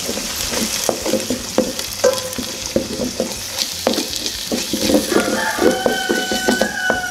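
Ají mirasol paste with onion and garlic sizzling gently in oil in a stainless steel pot, stirred with a wooden spoon that knocks and scrapes against the pot many times.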